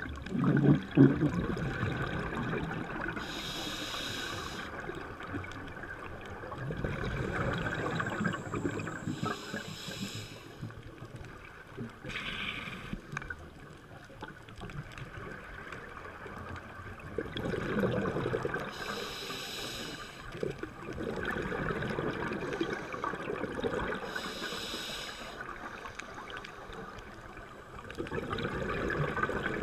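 Scuba regulator breathing underwater: each inhalation is a short hiss and each exhalation a longer gurgling rush of bubbles, several breaths in a slow cycle. The loudest burst of bubbles comes about a second in.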